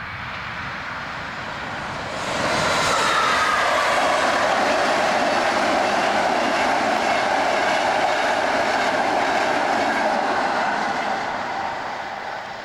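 A train passing by with wheels clattering on the rails. It swells suddenly about two seconds in, stays loud for about eight seconds, then fades near the end.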